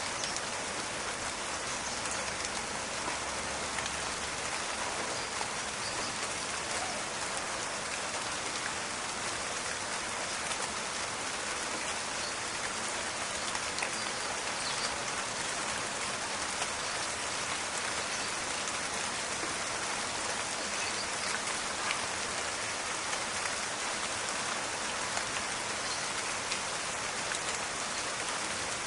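Steady rain falling on a forest, an even hiss with many small scattered drop ticks.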